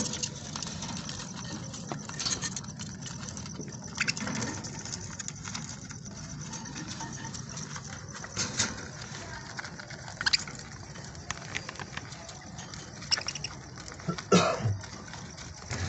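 Budgerigars in an aviary: a steady scatter of small clicks, taps and scratches with high chattering, and a brief louder pitched call near the end.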